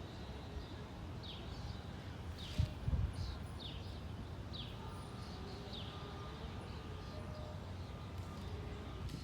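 A bird calling with a string of short, high, falling chirps, over a low rumble of wind on the microphone, with one brief knock about two and a half seconds in.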